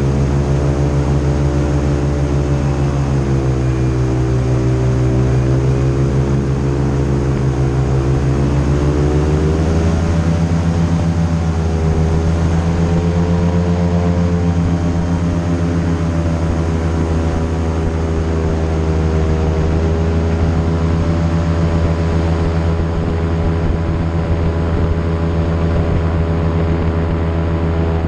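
Airboat engine and propeller running loudly under way, its pitch rising and falling with the throttle and stepping up about a third of the way through.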